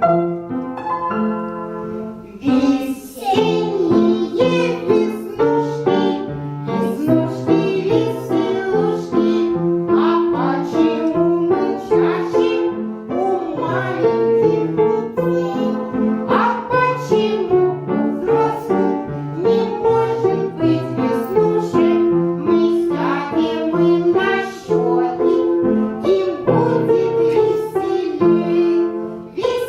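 Children's song: piano accompaniment, joined about two and a half seconds in by children singing.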